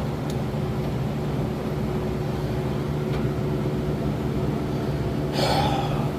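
A steady mechanical hum, with one short louder scraping noise about five seconds in.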